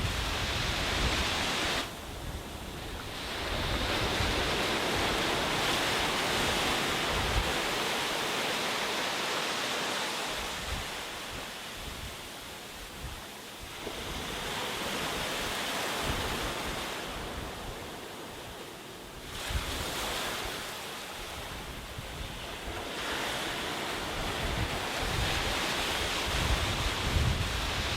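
Sea waves breaking and washing up a beach: a steady surf hiss that swells and fades every few seconds. Wind buffets the microphone in low rumbles near the start and again near the end.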